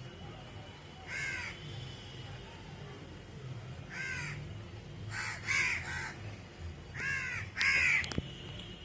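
A crow cawing, about seven short harsh caws in uneven bursts, the last two near the end the loudest.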